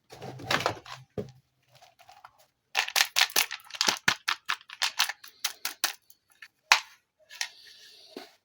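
Plastic toy packaging being handled and unboxed: a rustle, then a fast run of sharp clicks and crackles, one loud click about two-thirds of the way through, and a short hiss near the end.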